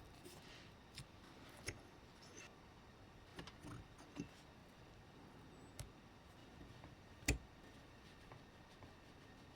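Scattered light clicks and taps of small hard parts and tools being handled, with one sharper knock about seven seconds in.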